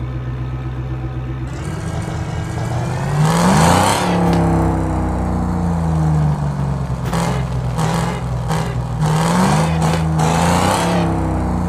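Muscle car engine idling, then revved up and let fall back twice, loudest on the first rev about three and a half seconds in.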